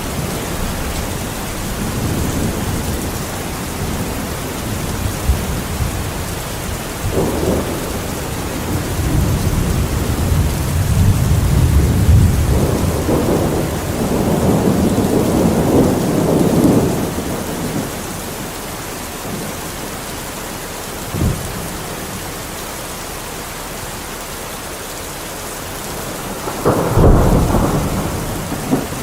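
Steady rain with thunder: a long low rumble swells through the middle, and a sharper thunderclap comes near the end.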